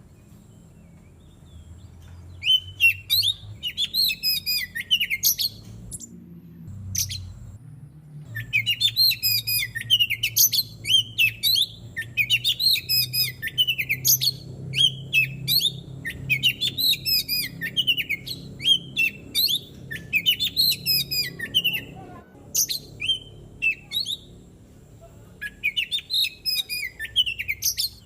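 Oriental magpie-robin singing: long, fast runs of varied whistled notes, starting about two seconds in and broken by short pauses about six seconds in and again near the end, over a low steady hum.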